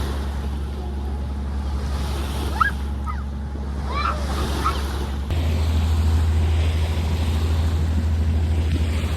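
Sailboat's engine droning steadily under the rush of water and wind. A few short high squeaks come about halfway. A little after five seconds the drone steps up louder.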